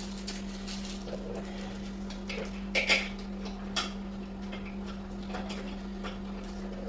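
Scattered light metal clicks and clinks of hand tools and brake parts being handled, with a sharper clink about three seconds in, over a steady low hum.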